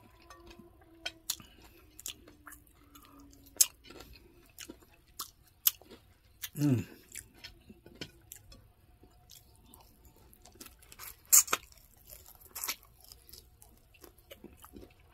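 Close-up chewing and crunching of crispy fried chicken, with irregular sharp crunches between softer chewing, the loudest about eleven seconds in. A brief low sound falls in pitch about six and a half seconds in.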